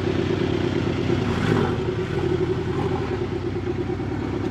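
Porsche Boxster sports car engine running steadily at close range, with street traffic around it.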